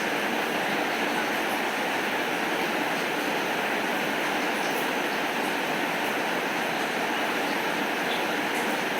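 Steady rainfall: an even, unbroken hiss of rain with a few faint ticks.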